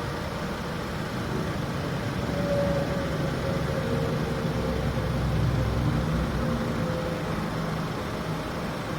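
A 2016 Volkswagen Golf SportWagen's turbocharged four-cylinder engine idling steadily after a cold start, growing a little louder in the middle before settling.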